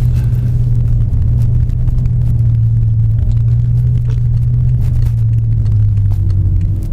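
BMW M5's twin-turbo V8 droning steadily, heard from inside the cabin while the car cruises, with tyre and road rumble underneath; the hum eases down slightly in pitch near the end.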